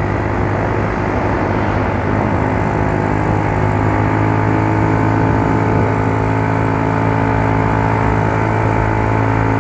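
Yamaha Mio Soul scooter's single-cylinder four-stroke engine running steadily at an even pitch, its carburettor freshly cleaned after hard starting.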